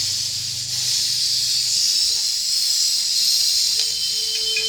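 Car-wash spray jet hissing steadily as it cleans a wheel or metal surface, with a low hum underneath that stops about halfway through.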